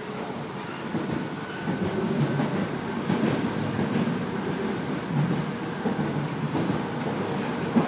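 PATCO Speedline rapid-transit train running along the rails, heard from inside the front car: a steady rumble of wheels on track that grows louder, with a faint steady whine over the first few seconds.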